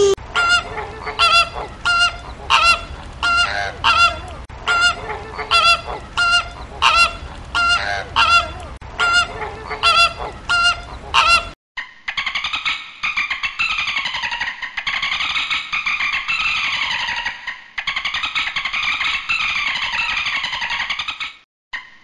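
A goose honking again and again, about one short honk every two-thirds of a second, for the first half. After an abrupt cut it gives way to a different, continuous warbling sound whose pitch slowly rises and falls.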